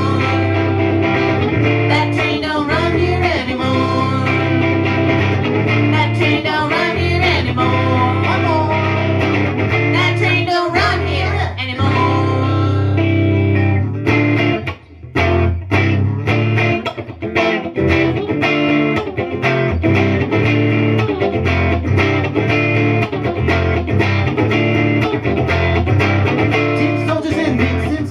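Guitar music: an instrumental break with plucked guitar playing a melody over a steady bass, briefly thinning out about fifteen seconds in.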